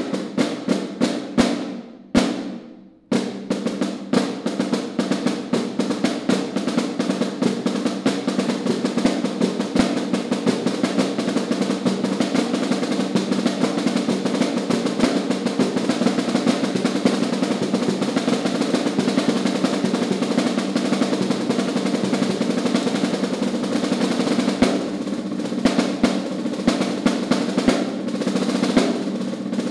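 Solo snare drum: quick strokes fading away in a diminuendo roll about two seconds in, then a sudden loud entry into a long, continuous snare roll with accented strokes.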